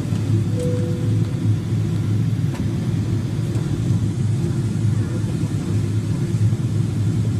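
Steady low drone of an airliner in flight, heard from inside the passenger cabin: engine and airflow noise.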